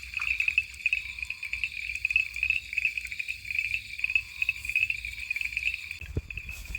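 A dense chorus of frogs and toads calling, a fast-pulsing high trill with short lower trills now and then.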